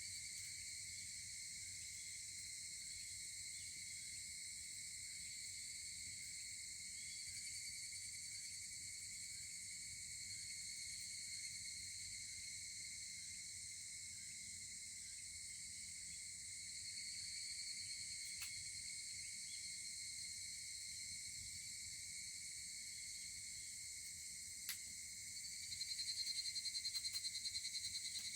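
A chorus of insects chirring steadily at several high pitches, with a louder, fast-pulsing trill joining near the end. Two faint sharp pops, about six seconds apart, come from the crackling bonfire.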